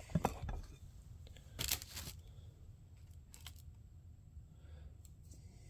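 Small plastic parts being handled: a few light clicks at the start, a brief rustle or scrape a little under two seconds in, and one more click about three and a half seconds in, then faint room tone.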